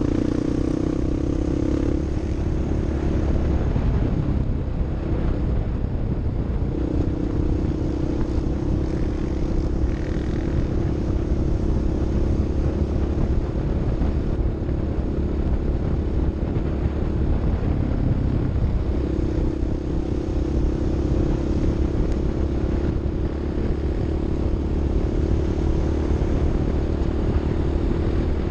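Off-road vehicle's engine running under way, with a steady note over a low rumble. The engine note eases off twice, a few seconds in and again about two-thirds through, then comes back.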